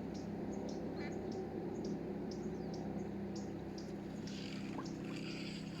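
Small birds chirping in many short, high calls over a steady low hum.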